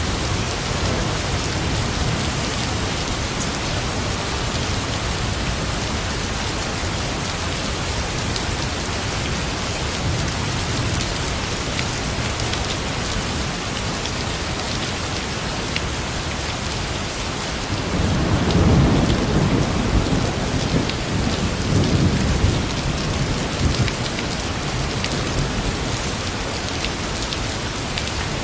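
Steady heavy rain falling, with a low rumble of thunder swelling up about two-thirds of the way through and dying back down.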